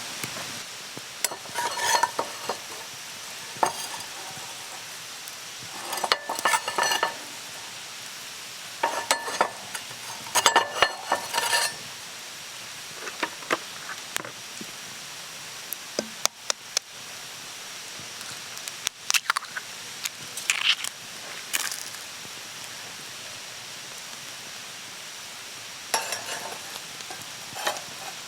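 Food sizzling in a pan over a campfire, with groups of metal clinks and scrapes as a utensil stirs and works against the pan.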